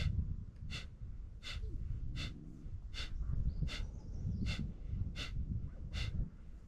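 Kapalbhati pranayama breathing: short, forceful exhalations through the nose, each pushed out by pulling the stomach in, in a steady rhythm of about one every three-quarters of a second, nine in all. A steady low rumble runs underneath.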